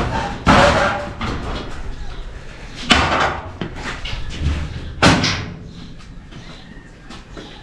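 Three loud slams, each with a short ringing tail, about two and a half seconds apart.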